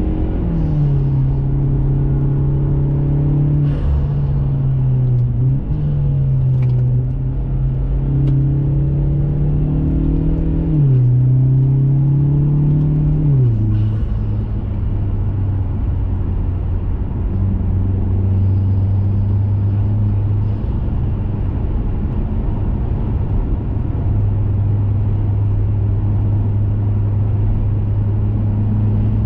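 2021 Mazda 3 Turbo's 2.5-litre turbocharged four-cylinder, heard through an aftermarket CorkSport cat-back exhaust, pulling under way. Its steady drone steps down in pitch with upshifts right at the start, about ten seconds in and again about thirteen seconds in, then settles into an even, lower cruising drone.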